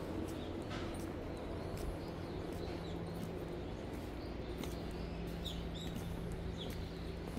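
A few short, high bird chirps in the second half, over a steady low hum and faint clicks.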